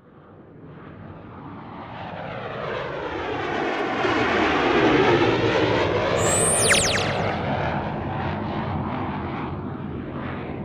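Aircraft-like fly-past: a rushing engine sound that swells for about five seconds. A whistle drops steeply in pitch just after the midpoint as it passes, and then the sound fades away.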